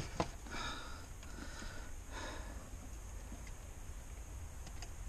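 Faint breaths or sniffs twice in the first couple of seconds, with a few light clicks of small parts and a tool, over a steady low hum.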